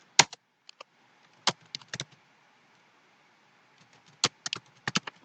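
Computer keyboard typing: irregular key clicks, a few scattered through the first two seconds, then a quick run of keystrokes near the end.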